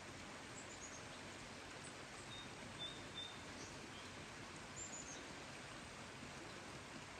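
Faint, steady hiss of rain with small birds calling over it: a quick falling run of short high chirps about half a second in, a thin whistled note around two to three seconds, and another falling chirp run near five seconds.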